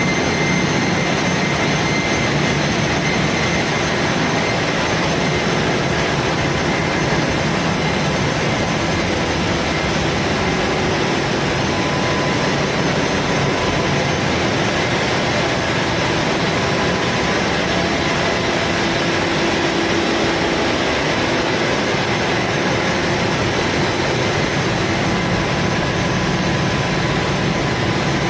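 Loud, steady din of engine-room machinery running, a constant rumble and hiss with faint steady hums and whines and no change throughout.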